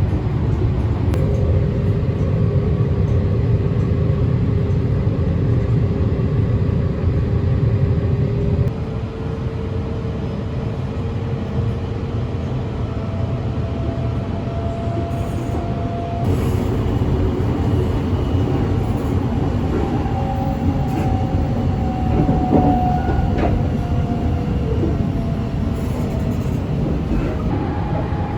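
Sunrise Izumo sleeper train running along the line: a steady low rumble with faint steady whining tones that change pitch a few times.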